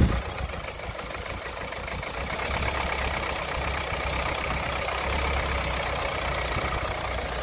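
Car engine idling steadily, running after the injector clamp bolt repair.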